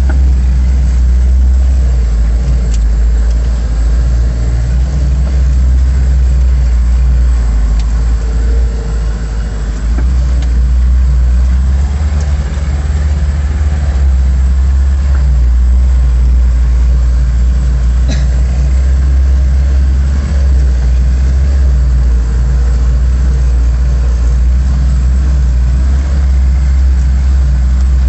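LuAZ off-roader's VAZ-21083 four-cylinder petrol engine running steadily with a low, even drone.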